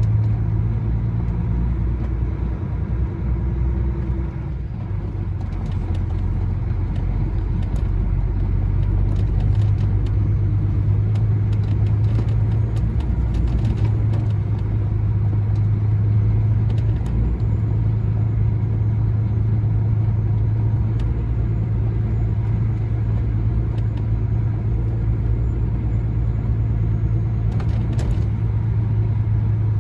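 Heavy truck's diesel engine running at a steady low drone with road noise while driving, heard from inside the cab.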